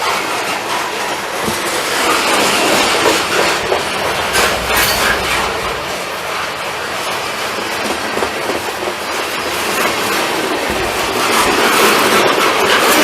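Long freight train rolling past, its cars' wheels clacking steadily over the rail joints.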